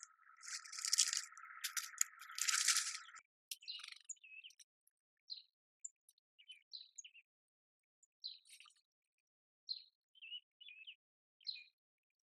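Small birds chirping: short single chirps, scattered irregularly. The first three seconds hold a rattling hiss that cuts off.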